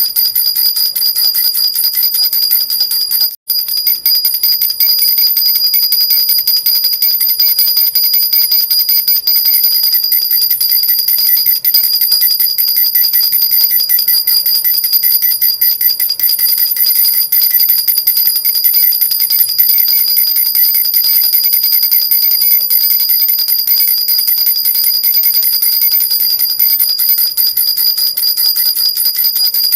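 Metal jhunjhuna (baby rattle) shaken without pause, jingling with a bright, high ringing. It cuts out for an instant about three seconds in.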